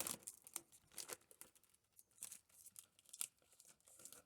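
Faint, irregular crinkling and tearing of protective plastic film being peeled off a car body panel.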